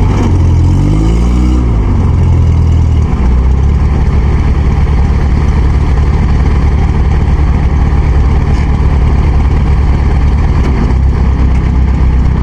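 Farm machine engine revving up in the first couple of seconds, then running steadily and loudly at a constant speed, as during towing a stuck rice harvester out of mud.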